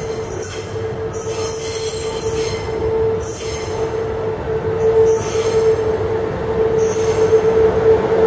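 Queensland Rail ICE electric multiple unit pulling in along a curve and passing close by. It gives a steady whine, with repeated short high-pitched squealing hisses, and grows louder as it draws near.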